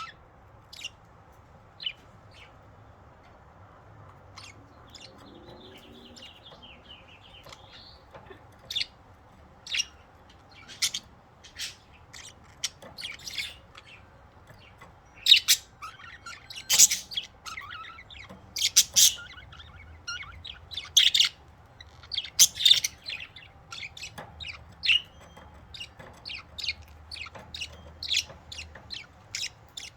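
Pet budgerigars chirping: short, sharp chirps, few at first and busier and louder from about halfway, with a brief warble early on.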